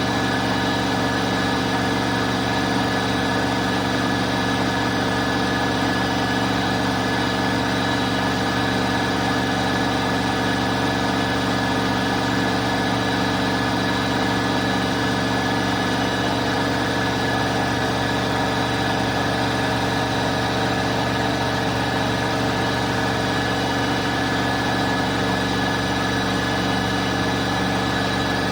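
Bosch Aqua Star washing machine running steadily: an even motor hum with a constant whine over it, unchanging throughout.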